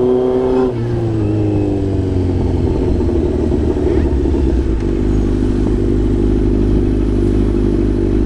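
Kawasaki Z900's 948cc inline-four engine running at high revs, then falling in pitch about a second in as the revs drop, and settling into steady running at lower revs.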